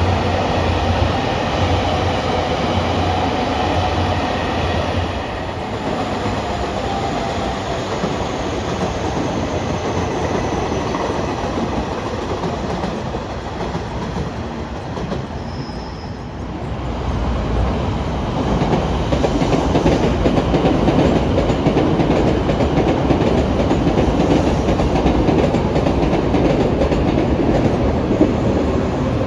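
A train running past on the track, its wheels clattering over the rail joints. A whine falls in pitch over the first several seconds; the sound dips about halfway through, then comes back louder and rougher.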